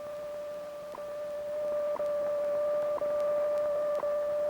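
A steady electronic tone at one pitch, broken by a short tick about once a second and slowly growing louder.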